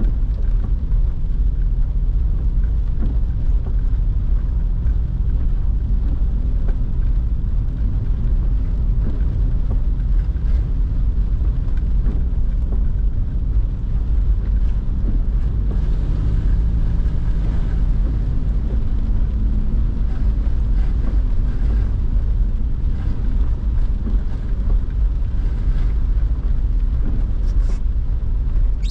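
Car driving: a steady low rumble of road, engine and wind noise.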